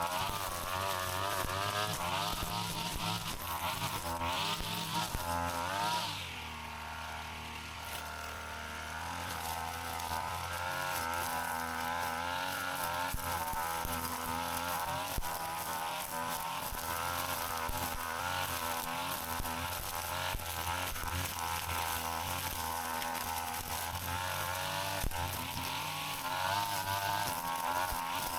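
Brush cutter engine running with a buzzing, wavering pitch as the load changes while cutting. About six seconds in it drops toward idle and quietens, then revs back up a few seconds later.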